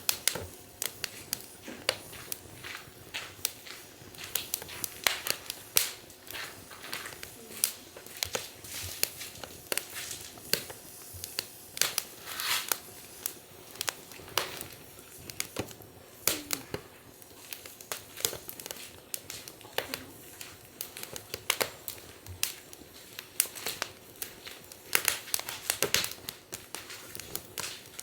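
Wood fire in a fire stand crackling, with irregular sharp snaps and pops several times a second.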